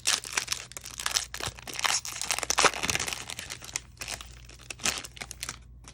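Plastic foil wrapper of a 2020 Topps Series 1 baseball card pack being torn open and crinkled by hand: a dense run of crackling that thins out near the end.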